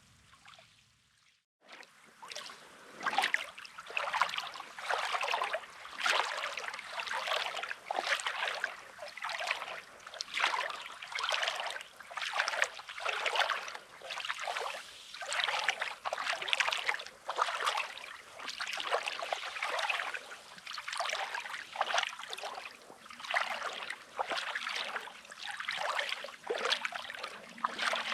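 Footsteps crunching on pebbly, rocky sand at a steady walking pace, about one step a second. They start about two seconds in, after a brief near-silent moment.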